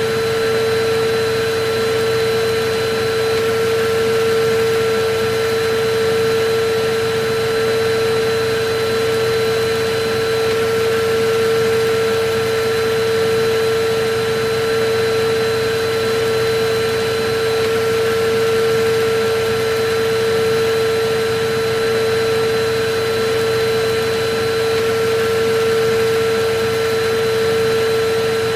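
Electric vacuum cleaner running steadily: an even rush of air under a constant whine from the motor.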